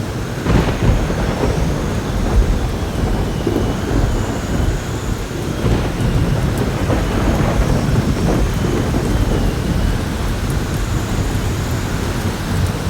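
Heavy rain falling steadily under rumbling thunder, with a sharper thunderclap about half a second in and another swell near the middle. A faint wavering whistle of wind rides high above the rain.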